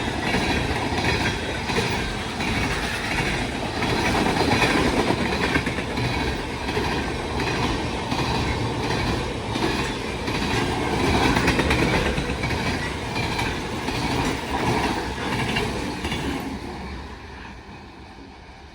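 Freight train of oil tank cars rolling past close by, its wheels clacking rhythmically over the rail joints. The noise fades over the last couple of seconds as the train moves away.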